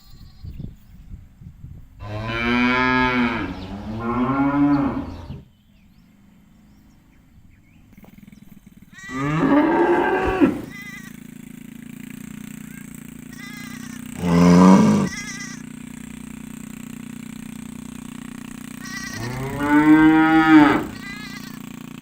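Cows mooing: five long moos, each rising and then falling in pitch. The first two come back to back a couple of seconds in, then one follows about every five seconds. A steady low hum sets in about halfway through.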